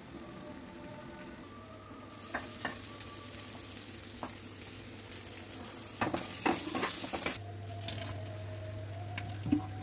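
Chopped onion and cubes frying in oil in a kadhai, sizzling, with sharp clinks and a clatter of a spatula against the pan. The frying cuts off about seven seconds in, giving way to a steady low hum and a metal clank as the pot of boiled corn is tipped over a strainer in a steel sink.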